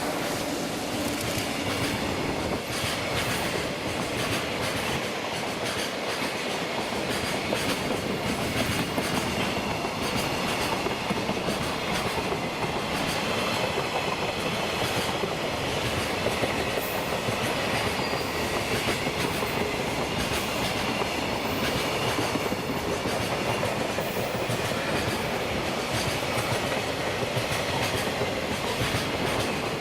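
Long container freight train hauled by an electric locomotive passing steadily, a continuous run of wheels clacking over rail joints and rumbling on the rails.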